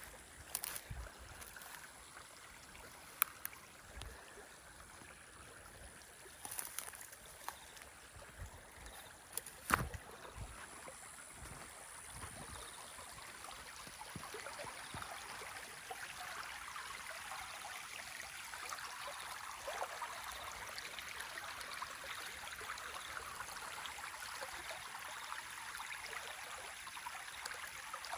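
River water flowing, a steady rushing that grows a little louder about twelve seconds in, with a few sharp clicks in the first ten seconds.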